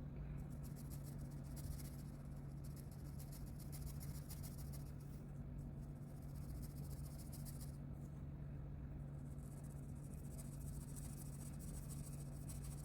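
Coloring strokes scratching rapidly back and forth across paper, in three spells with brief pauses about five and eight seconds in, over a steady low electrical hum.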